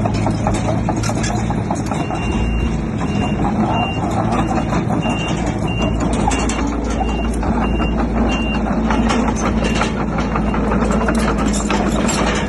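Diesel engine of heavy earthmoving machinery running with repeated knocks and clanks. A reversing alarm beeps about twice a second from about two seconds in until past the middle, with one more beep later.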